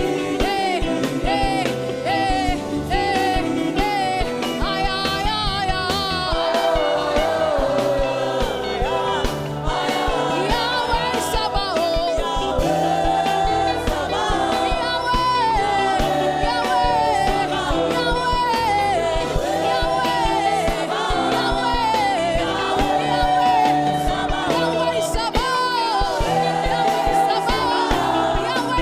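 Live gospel worship music: singing voices over keyboard-style instrumental backing with a steady beat.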